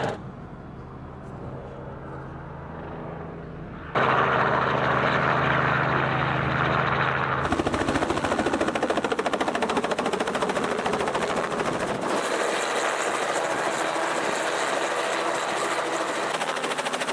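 Crop-spraying helicopter flying, with a fast, even chop from the rotor blades. The sound is quieter for the first few seconds, then jumps louder about four seconds in and shifts in tone twice more.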